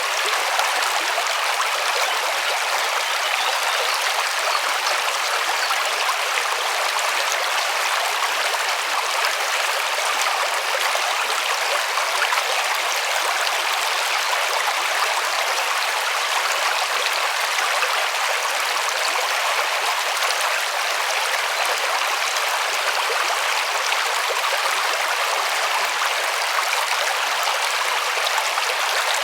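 A river running over rocks: a steady, even rush of water, with the sound mostly in the higher range and little low rumble.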